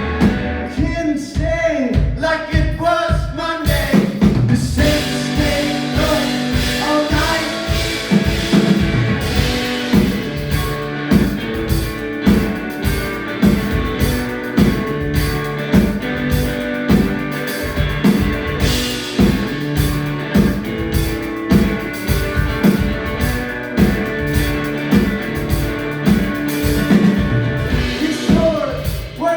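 Live blues-punk rock played by a duo on drums, guitar and voice, with singing. For about the first four seconds the voice and guitar carry it; then the full band comes in with a steady drum beat.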